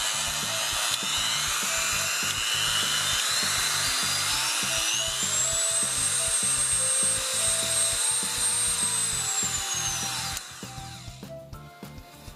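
Dremel 3000 rotary tool's 130 W motor running free: a high whine that climbs in pitch over about five seconds as the variable speed is turned up, holds at top speed, then falls and dies away about ten seconds in as the tool is switched off and spins down. Background music plays underneath.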